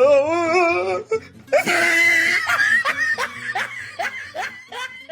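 A person laughing hard: a wavering, high laugh that breaks into a long run of short ha-ha strokes and slowly fades, with background music playing underneath.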